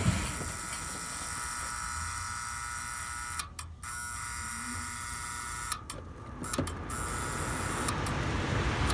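Attic HVAC air handler running after a transformer replacement: a steady motor hum with a thin whine, briefly dipping twice, then a rising rush of air near the end.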